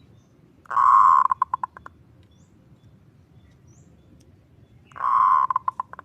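Zebra dove (perkutut) cooing twice, about four seconds apart. Each phrase is a longer opening note followed by a quick run of four or five short clipped notes, the kerot-ngutut song prized by keepers.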